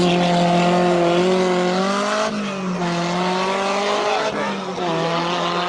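Rally car engine at high revs. Its pitch climbs at the start, then holds with slight rises, dropping briefly about two seconds in and again near five seconds.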